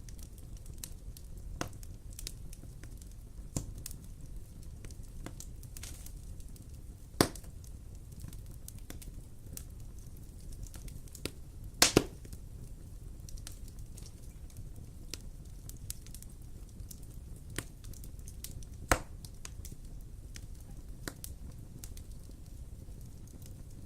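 Wood fire crackling in a fireplace: a steady low rumble under scattered small snaps. Sharper pops stand out about 7, 12 and 19 seconds in, the one at 12 seconds a quick double.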